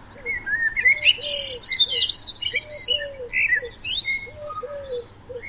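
Birdsong: several birds chirping and twittering in quick, high, gliding notes, over a lower call that repeats in short groups about once a second.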